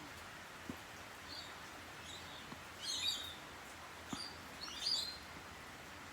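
A parrot chirping in short high calls, a few scattered ones with the loudest clusters about three and five seconds in, with a few faint clicks between them.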